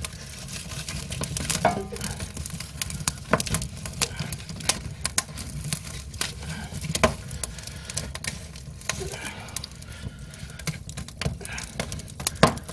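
Split firewood burning in an agungi, the fire hole under a Korean ondol floor, crackling and popping irregularly with scattered sharp snaps. The loudest snap comes near the end.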